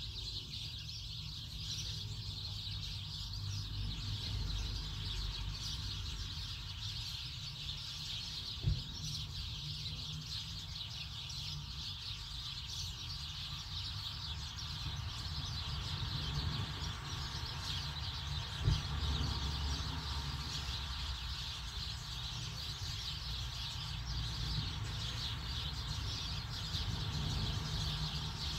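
Small birds chirping continuously over a low steady hum, with two sharp knocks about ten seconds apart.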